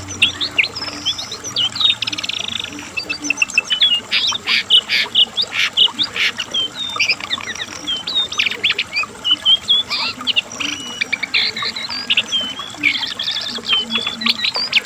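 Cingcoang coklat (jongkangan, lesser shortwing) singing nonstop: a fast, varied run of high chirps, short trills and whistled notes.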